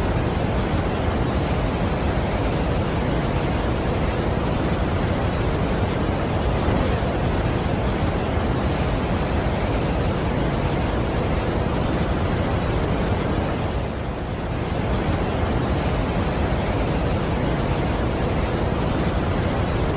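Steady, dense rush of a large waterfall, with a brief slight dip about two-thirds of the way through.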